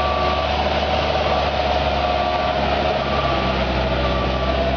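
Moffett Mountain truck-mounted forklift's diesel engine running steadily with a steady whine as it manoeuvres, while its warning alarm beeps about once a second.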